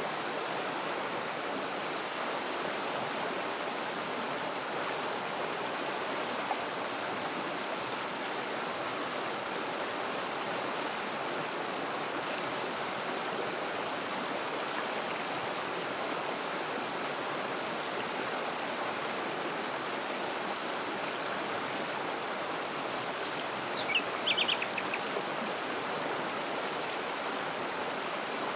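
Steady rushing of a waterfall and stream. A bird gives a short run of quick high chirps near the end.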